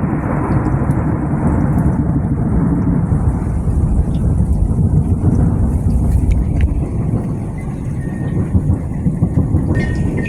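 Thunder rolling on in a long, steady low rumble over a faint hiss of rain, easing slightly near the end. Wind chimes begin ringing just before the end.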